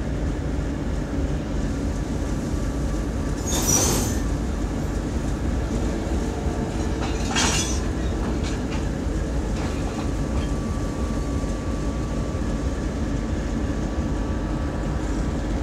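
Passenger train double-headed by two TEP70 diesel locomotives rolling past, a steady low rumble of engines and wheels on the rails. Two brief shrill sounds cut through it, about four seconds in and again about seven and a half seconds in.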